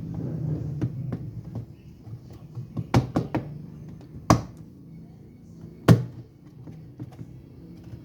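A few sharp knocks and clunks of hard parts being handled during washing machine repair work, the loudest about three, four and six seconds in. A low hum fades out during the first second or two.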